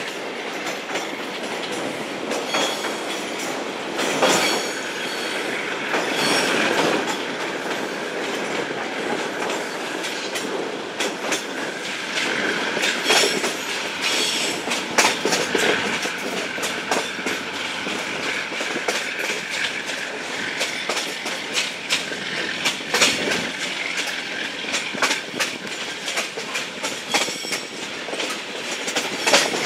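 TAZARA passenger train running, heard from an open carriage window: wheels clattering over the rails with irregular sharp knocks, and a faint wheel squeal as the train rounds a curve.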